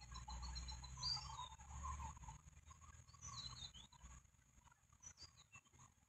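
Faint, high bird chirps: one short rising-and-falling chirp about a second in and a few quick ones around three and a half seconds, over a low rumble during the first two seconds.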